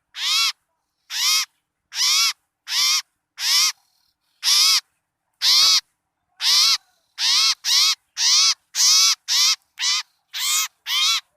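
Bird-lure recording for small birds: a series of about sixteen harsh, rasping bird calls. Each call is short and rises then falls in pitch, coming at uneven intervals with clean gaps between them. It is the kind of commotion call played to draw small birds in.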